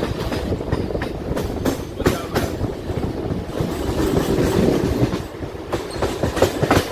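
Mumbai suburban EMU local train running between stations, heard from inside the coach: a steady rumble of wheels on the track with sharp clacks over rail joints. The clacks come in clusters about a second and a half in and again near the end.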